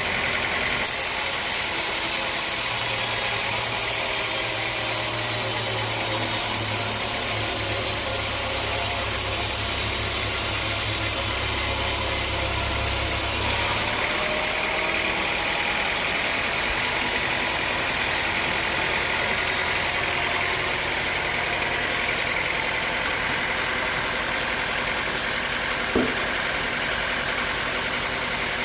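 Sawmill machinery running steadily with an engine-like drone. A deeper hum joins for about ten seconds in the first half, and there is a single sharp knock near the end.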